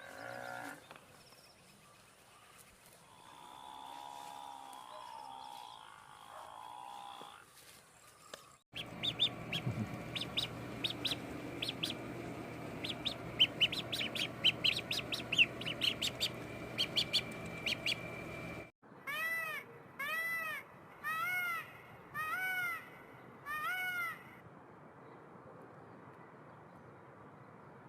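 Bird calls in a series of short clips: a faint pitched call, then a stretch of rapid high chirping, then five evenly spaced calls about a second apart, each rising and then falling in pitch.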